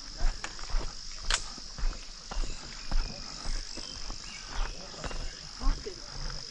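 Hiking footsteps on a mountain trail, about two steps a second, with a sharper click a little over a second in. Behind them a steady high-pitched insect drone runs without a break.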